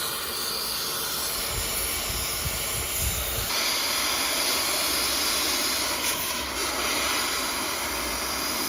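Cutting torch hissing steadily as it cuts through a tractor fender, the hiss growing brighter about three and a half seconds in.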